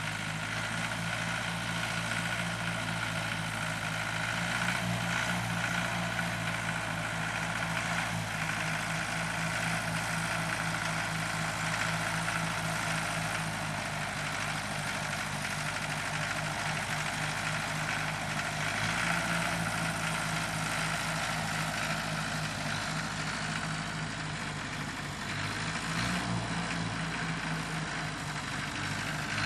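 Tractor engine running steadily while pulling a plow through the soil.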